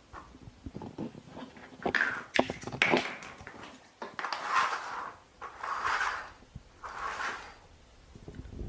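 A domestic cat making three breathy, hiss-like sounds about a second apart, after a few seconds of clicks and knocks.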